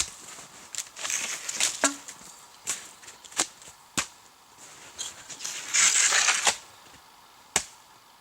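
Dry firewood being broken and handled: sharp snaps and cracks at irregular intervals, with two short rustling, crunching stretches.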